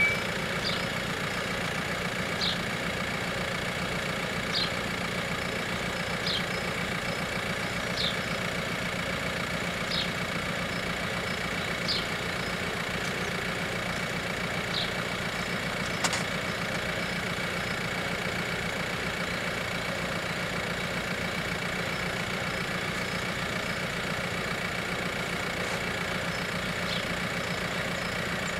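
Car engine idling steadily close by, over a level-crossing warning bell ringing continuously as a steady high tone.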